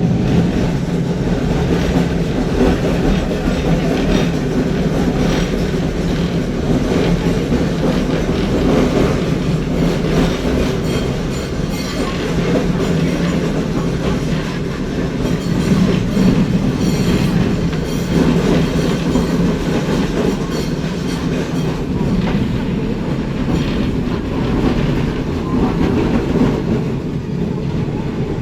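Vintage W-class tram running along its track, heard from inside the car: a steady rumble of wheels and running gear, with clacking of the wheels over rail joints or points that is busiest in the middle stretch.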